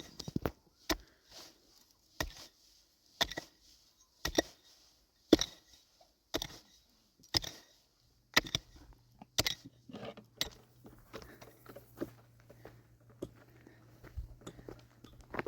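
Repeated sharp strikes at a steady pace of about one a second, like a tool or blade hitting something hard. A faint low hum comes in about halfway through.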